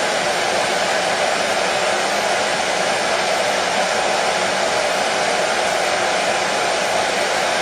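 Hair dryer blowing continuously with a steady, even rushing noise, played as soothing white noise for a colicky baby.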